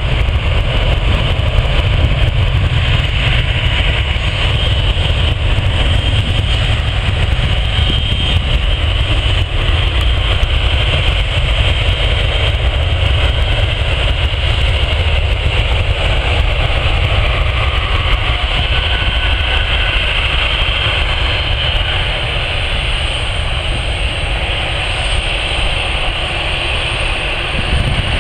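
Jet airliner engines running: a steady loud rumble with a high whine above it, and a thin high-pitched tone coming in during the second half.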